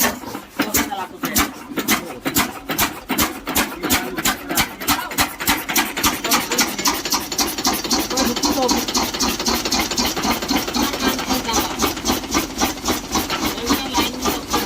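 A large old 21/27 hp stationary engine running just after a hand-cranked start. It gives a heavy, regular beat that quickens in the first few seconds, then settles at about four to five beats a second.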